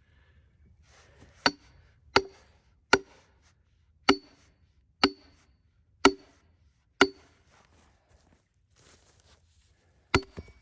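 A hammer striking a steel splitting wedge to drive it into a cedar log: seven ringing metallic blows about a second apart, then another clanging strike near the end.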